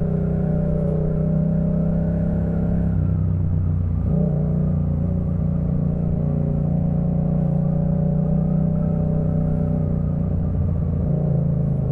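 Yamaha MT-07's 689 cc parallel-twin engine running through a Jeskap K4 full exhaust while ridden, holding a steady note. The pitch shifts briefly about three to four seconds in.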